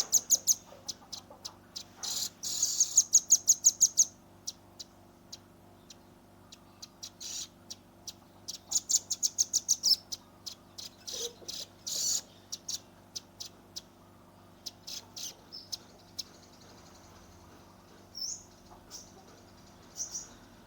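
Velvet-fronted nuthatch (red-billed rambatan), a young bird, giving rapid trilled series of sharp high notes, about six to eight a second. The trills come in several bursts of a second or two with pauses between, the kind of dense 'shooting' call used to tutor other songbirds.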